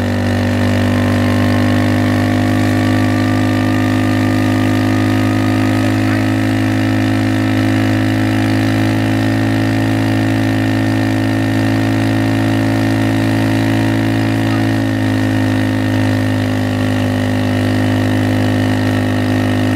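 Motorbike engine running at a steady speed, with a slight change in its note about fifteen seconds in.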